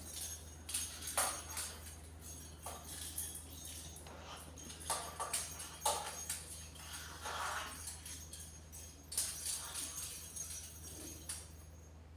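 Small bell in a toy ball jingling and rattling in irregular bursts as a conure pushes and knocks it around, over a steady low hum.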